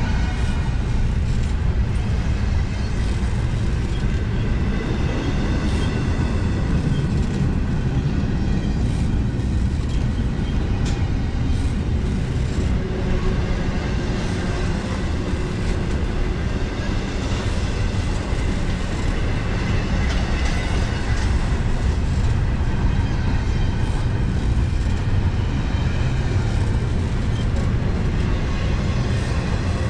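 Double-stack intermodal freight train's container well cars rolling past: a loud, steady rumble of steel wheels on rail, with occasional clicks.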